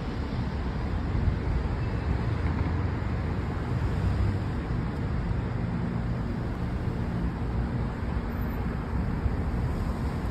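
Steady distant city traffic noise, a continuous rumble of cars on the streets, with a low engine hum joining about halfway through.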